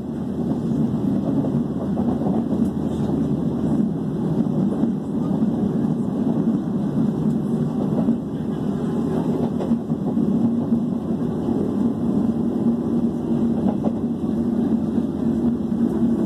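Steady low rumble inside a moving passenger train carriage running at speed, the noise of the wheels and running gear on the track with a faint steady hum.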